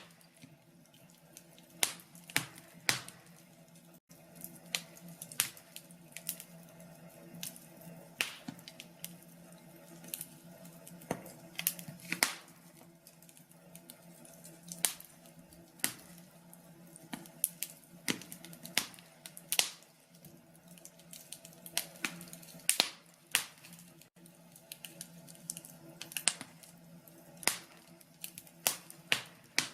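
Wood fire in a fireplace crackling, with irregular sharp pops and snaps of burning logs, some much louder than others, over a faint steady low hum.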